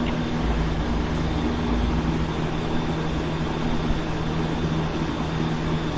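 A steady mechanical hum with a low rumble under it, the rumble a little stronger for a couple of seconds about half a second in.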